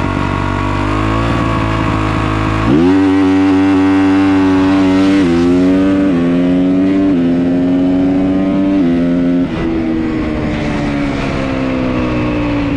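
Dirt bike engine held at high revs, then the clutch is dumped about three seconds in for a hard launch: the revs jump and the bike accelerates through several upshifts, the pitch climbing and dropping at each shift, before the throttle eases off and the pitch falls steadily near the end.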